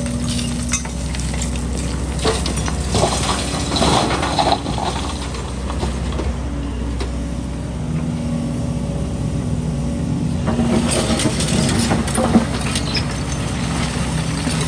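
Excavator's diesel engine running steadily under load, with two spells of clattering and scraping as the bucket works concrete rubble, the first about two seconds in and the second about ten seconds in.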